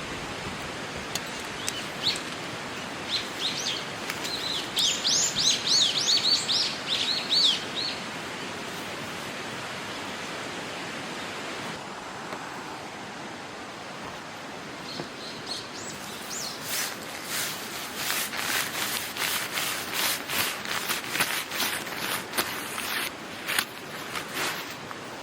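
A songbird sings a run of quick high chirps over a steady outdoor rushing noise. Later comes a dense run of sharp clicks and rustles.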